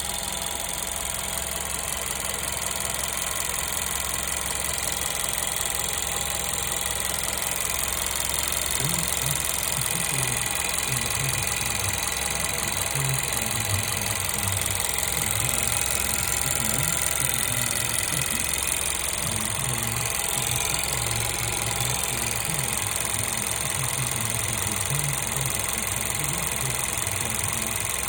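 Volkswagen-group 1.2 TSI turbocharged petrol engine running steadily, with a rattling, whirring mechanical noise over it that the owner questions as timing chain noise.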